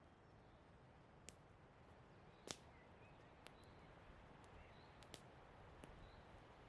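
Wood burning in a campfire, crackling faintly with sharp pops scattered through it; the loudest pop comes about two and a half seconds in.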